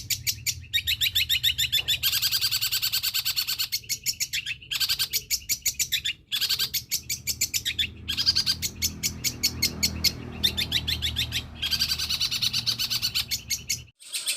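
Long-tailed shrike (cendet) singing a long, mimicry-filled song: fast runs of short high chirps, many to the second, in phrases broken by brief pauses, over a low steady hum.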